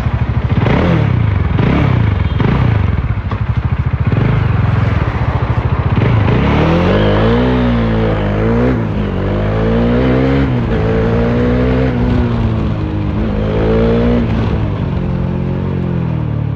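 Bajaj Dominar 400's single-cylinder engine running with its muffler removed, giving a loud raw exhaust note. It blips the throttle three times in quick succession, then accelerates, the pitch climbing and dropping back at each upshift.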